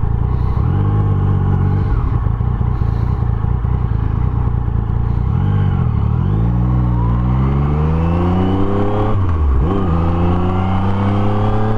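Yamaha Tracer motorcycle engine pulling away and accelerating through the gears: the engine note climbs, drops at an upshift about nine seconds in, then climbs again.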